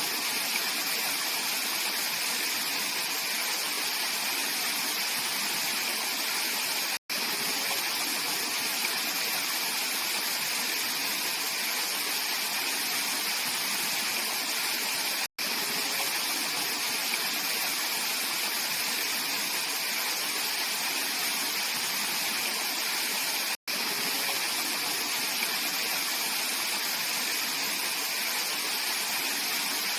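Valley stream water flowing and splashing in a steady, unbroken rush. The flow cuts out for a split second three times, roughly every eight seconds.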